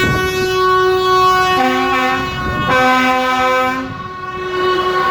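Horns sounding: one steady high note held for several seconds, with a lower second note joining it in two blasts of about a second each.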